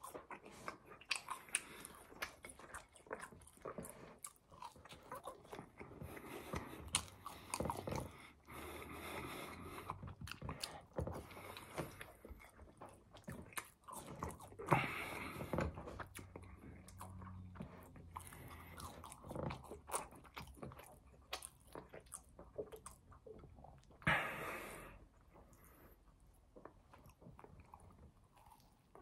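A person chewing and biting into a burger and fries close to the microphone: a steady run of soft crunches and mouth clicks, with a few louder bites spaced several seconds apart.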